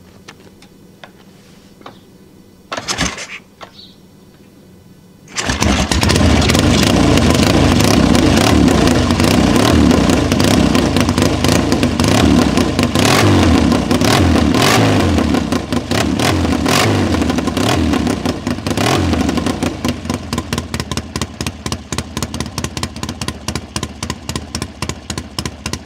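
1971 BSA Lightning's 650cc parallel-twin engine being started. A short burst about three seconds in comes before it fires about two seconds later, and it then runs loud with the throttle blipped several times. Near the end it settles to an evenly pulsing idle.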